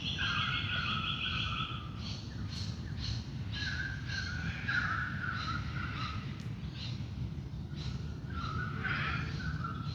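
A crow cawing in long, drawn-out calls, three times, with smaller birds chirping and trilling higher in a dawn chorus.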